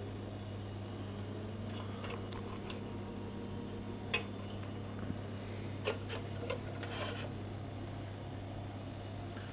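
Vintage Boomaroo toy washing machine running with a steady low hum, with a few light clicks and knocks about four seconds in and again around six to seven seconds in.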